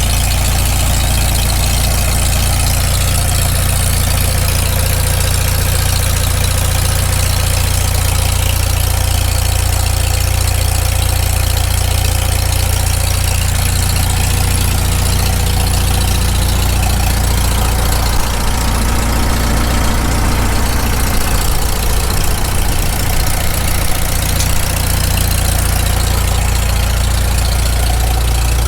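Freshly rebuilt Farmall Super M four-cylinder tractor engine running at a steady idle through its muffler on its first run after the rebuild, still cold and on its initial carburettor settings. The idle goes briefly a little uneven about two-thirds of the way through.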